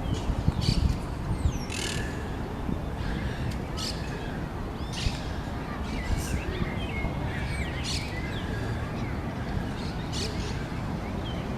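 Several small birds chirping and calling in quick, scattered notes over a steady low rumble.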